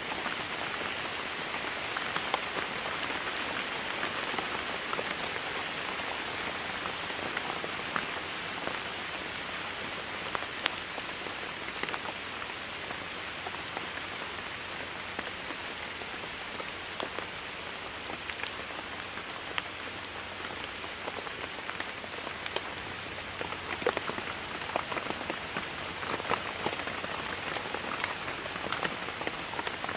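Steady rain falling on a surface, a dense even hiss with many individual drops ticking sharply through it.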